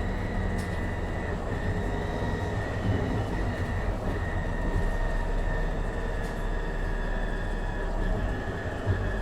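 2015 MAN Lion's City NL253 Hybrid city bus on the move: a low running rumble under a steady high whine from its hybrid electric drive, the whine dipping slightly in pitch near the end.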